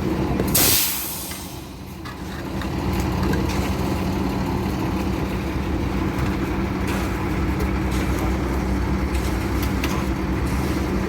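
Concrete mixer truck's diesel engine running steadily. About half a second in there is a short, loud hiss, after which the engine sound drops for a second or two before coming back up.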